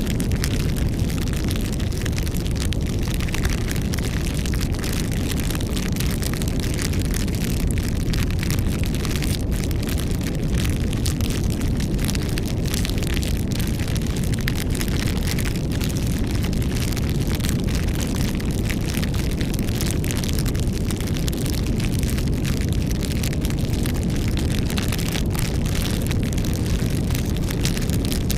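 Campfire burning, wood crackling and popping in frequent small snaps over a steady low rumble.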